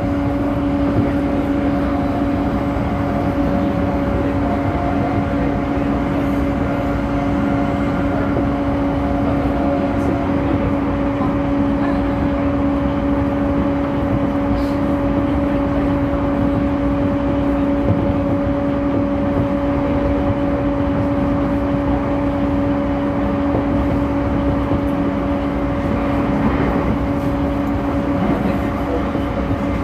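Refurbished JR East E231 series commuter train running at a steady speed: continuous rolling noise under a steady hum at two pitches that holds level throughout.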